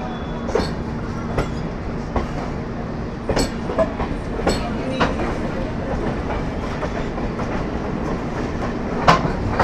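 MEMU local electric train running on the rails: a steady rumble with a low hum, and irregular sharp wheel clacks over rail joints, the loudest near the end.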